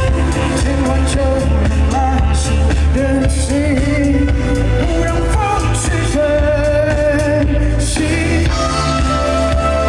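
Live indie-pop band performing a song, with a lead singer's voice over bass, drums and keyboards.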